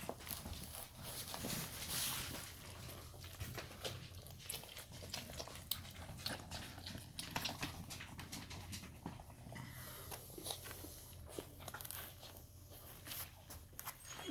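Four-week-old puppies moving and scuffling about, making many small irregular clicks and rustles over a faint low hum.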